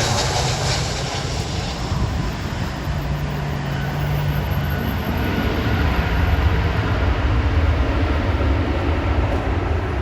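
Jet airliner engines rumbling loudly, a deep steady roar with a hiss that slowly fades.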